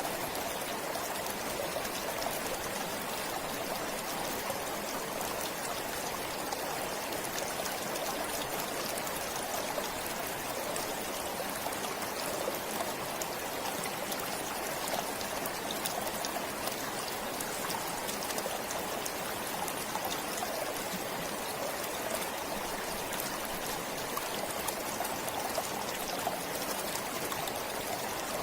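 A stream flowing steadily: a constant, unchanging rush of trickling water.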